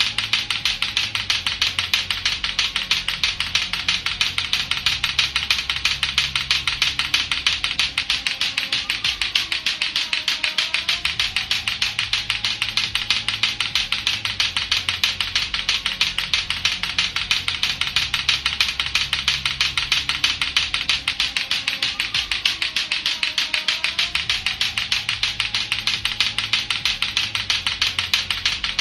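Latto-latto clackers, two hard plastic balls on a string, knocking together in a rapid, unbroken, even rhythm of clacks.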